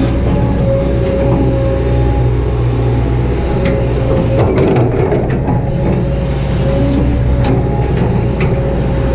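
Kobelco SK200-8 excavator running steadily under working load: a low diesel rumble with a steady whine from the hydraulics, and a few short knocks from the working gear.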